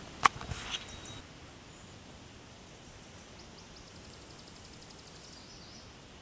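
A sharp click about a quarter second in, with a little rustling after it, then a faint, very high, rapid trill from a small forest bird lasting a few seconds over quiet outdoor hiss.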